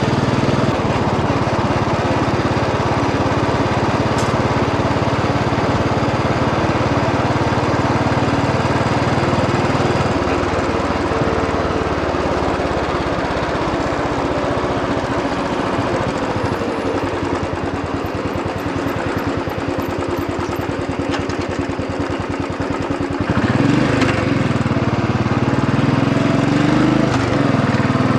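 Royal Enfield Bullet 500 EFI's single-cylinder engine running on the move. About two-thirds of the way through it gets louder, and its pitch rises and falls as it is revved.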